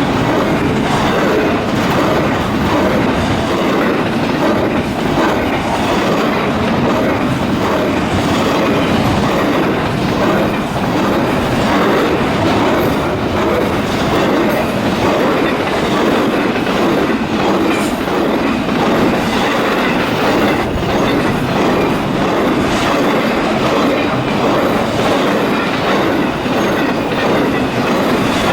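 Railroad cars rolling past on steel rails, a steady loud clatter of wheels clicking over rail joints.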